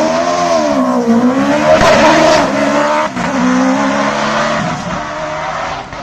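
A hillclimb race car's engine at full attack: the pitch rises and falls sharply as the driver revs and changes gear. A louder, noisier stretch comes about two seconds in. Near the end the sound fades as the car moves away.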